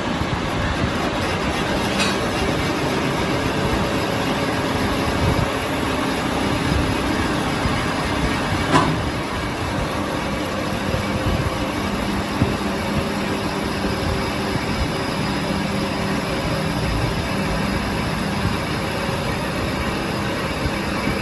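Workshop machinery running steadily with a continuous dense mechanical rumble, with two brief sharp clicks, one about two seconds in and one near the middle.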